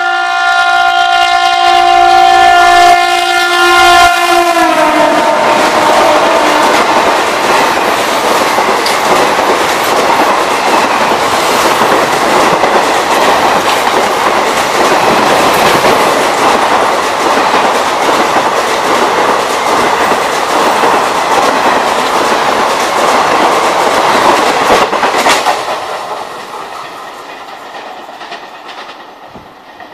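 WAP-7 electric locomotive's horn sounding one long continuous blast, its pitch dropping as the locomotive passes about four seconds in. The express's coaches then run past at speed in a loud rushing rail noise, which fades away after about 25 seconds as the train recedes.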